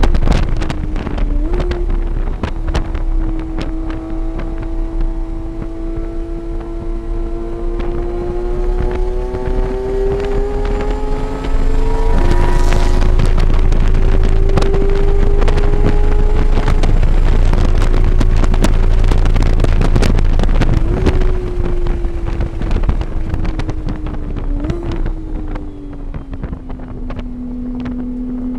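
Onboard engine sound of a vehicle lapping a race circuit, its pitch climbing under acceleration and stepping at gear changes: an upshift about twelve seconds in and downshifts later on. There is wind noise on the microphone throughout.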